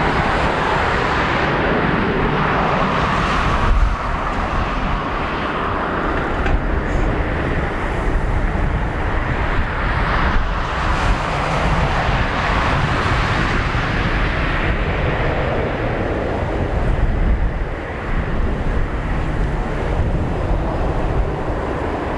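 Jet airliner engines heard across the airfield as a steady, loud rush that swells and eases a couple of times.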